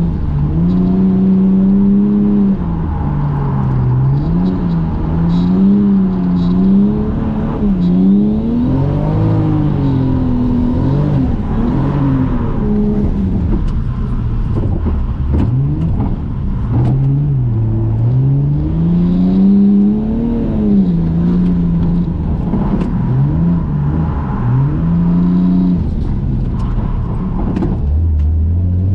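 Toyota JZX100 Mark II's inline-six engine heard from inside the cabin, its revs repeatedly climbing and dropping as the car is drifted on a wet track.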